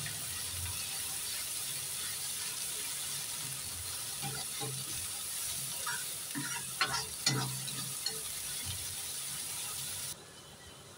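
Onion, garlic and ginger paste sizzling in hot oil in a metal kadhai while a metal spatula stirs and scrapes it against the pan, with a few louder scrapes in the middle. The sizzle cuts off suddenly near the end.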